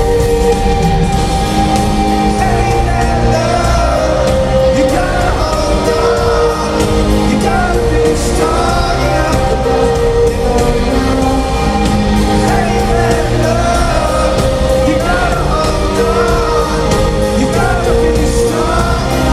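Live rock band playing on a concert sound system, with sung vocals coming in about two and a half seconds in and carrying on over the band.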